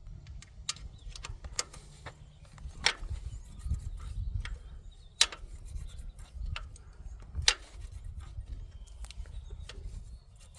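Scattered metallic clicks and taps of hand tools on the rocker arms of an inline-six engine as the valve clearance is adjusted with a wrench and feeler gauge. The sharpest clicks come about 3, 5 and 7.5 seconds in, over a low steady rumble.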